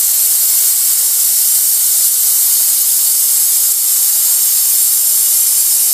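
Bed-bug steam machine jetting hot steam from its nozzle: a loud, steady hiss that does not let up.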